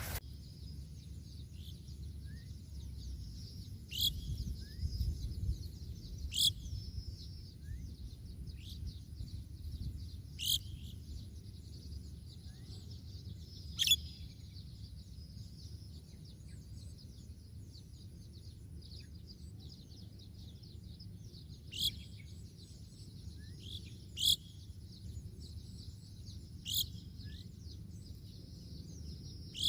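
A bird giving short, sharp, high calls that drop steeply in pitch, eight in all, a few seconds apart at irregular intervals, over a steady high hiss and a low rumble.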